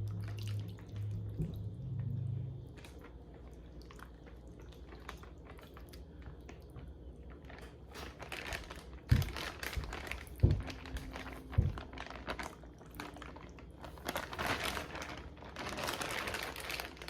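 Food-prep handling sounds: plastic crinkling and rustling, with a few sharp knocks midway.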